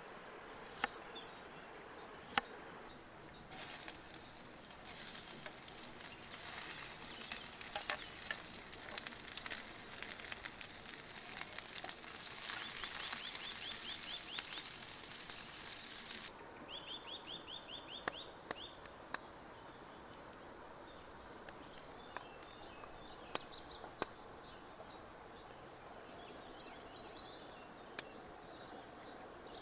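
Food sizzling and crackling in a hot pan over a campfire, starting a few seconds in and cutting off sharply about halfway through. It gives way to quieter outdoor background with a brief rapid bird trill and scattered small pops.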